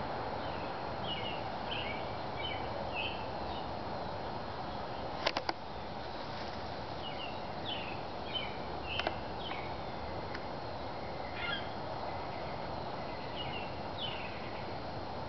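Small birds chirping in short runs of quick falling notes, several times over a steady rush of background noise. A quick run of sharp clicks comes about five seconds in, and a single click near nine seconds.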